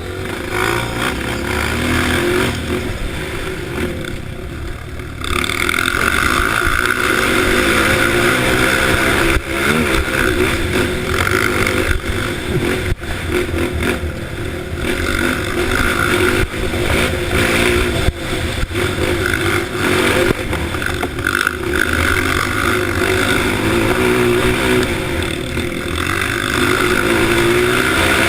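Honda CRF dirt bike engine running with a deep, throaty exhaust note. It gets louder about five seconds in and stays loud.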